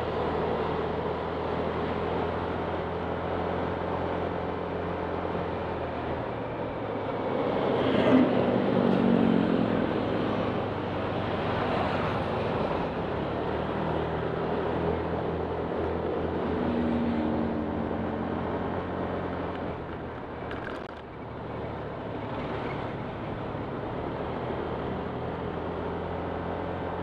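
Honda Click 125 scooter engine running steadily under a haze of noise, with a louder swell about eight seconds in.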